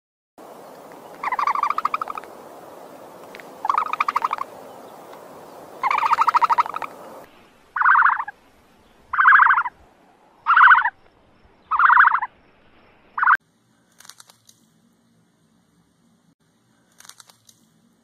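A bird's harsh, buzzy calls, repeated eight times. The first three are longer, with a steady hiss behind them. The last five are shorter and come about one every second and a half.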